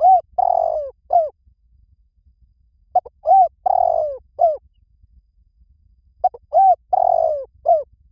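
Spotted dove cooing: three matching phrases about three seconds apart, each a quick run of four or five low coos in which the longer middle coo falls away at its end.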